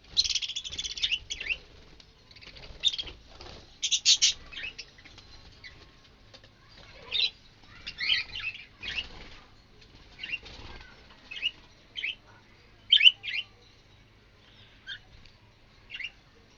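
Caged budgerigars chirping in short, scattered calls, with bursts of wing flapping near the start and again about four seconds in.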